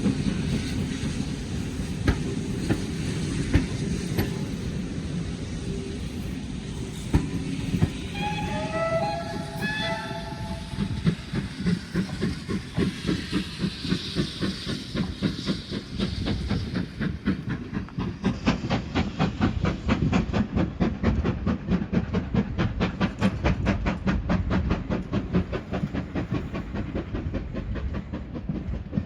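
Steam locomotive giving two short whistle blasts, then running with a fast, even beat of chuffs and wheel clatter.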